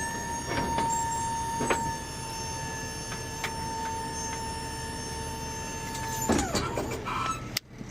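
Box truck liftgate's electric hydraulic pump motor running with a steady whine, then cutting off about six seconds in, its pitch falling as it winds down, followed by a few metal clanks.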